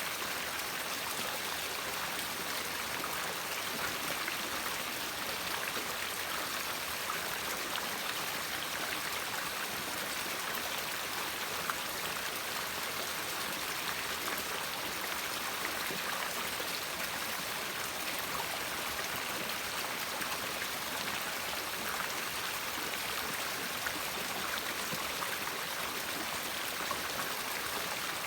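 A river or stream flowing over stones: a steady, even rush of water with small splashes and trickles.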